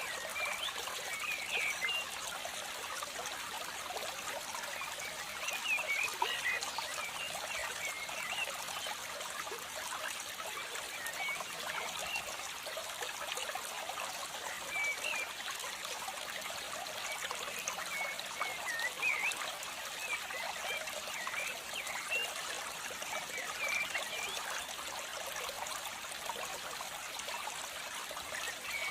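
A steady trickle of running water, with short high chirps scattered through it.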